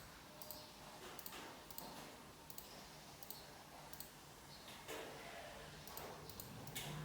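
Faint, irregular clicking, a click every half second or so at most, from someone working at a desktop PC, over a faint steady low hum.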